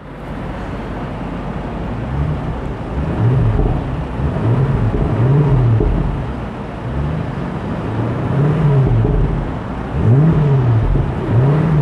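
BMW 4.4-litre twin-turbo V8 of a 2021 X5 M Competition revved while parked: about seven short blips of the throttle, each rising and falling in pitch, one to two seconds apart, over a steady idle.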